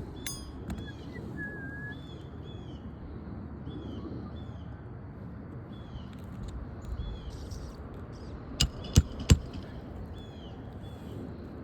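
A bird calling over and over in short, repeated chirps, with three sharp knocks in quick succession about nine seconds in, over a low steady outdoor rumble.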